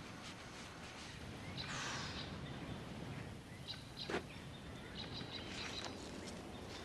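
Quiet outdoor ambience: faint short bird chirps, mostly in the second half, over a low steady hiss. There is a brief rustle about two seconds in.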